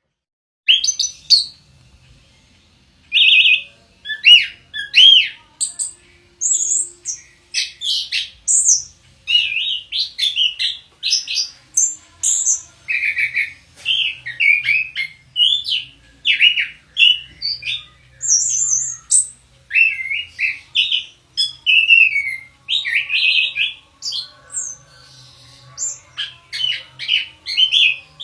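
Orange-headed thrush (anis kembang) singing a long run of quick, varied whistled and chirping phrases, many sliding in pitch, starting about a second in after a short pause.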